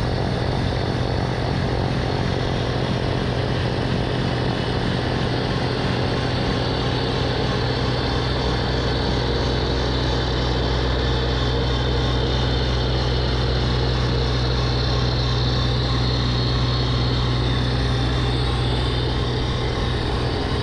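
Diesel tractor engine running steadily, a deep, even drone that holds at one level throughout.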